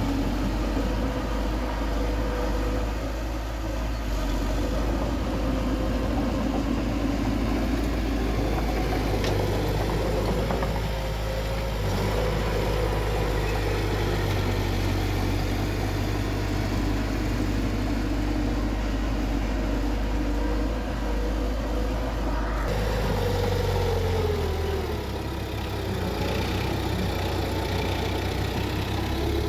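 Bulldozer's diesel engine running steadily as it works. About three-quarters of the way in, the engine note changes and drops in pitch.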